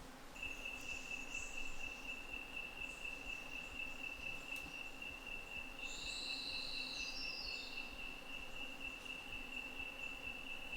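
A night insect calling in the rainforest: one steady, unbroken high-pitched trill that starts just after the beginning and keeps going. About six seconds in, a second, higher call sounds briefly and steps down in pitch. Faint chirps of other insects sit in the background.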